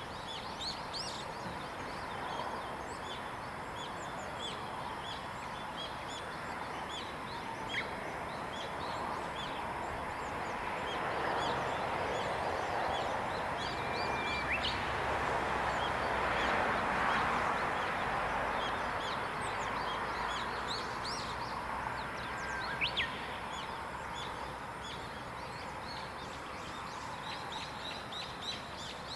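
Wild songbirds chirping and singing in a mix of short, high notes, with an occasional clearer whistled note. Beneath them runs a steady outdoor hiss that swells into a soft rushing noise for several seconds around the middle, then fades back.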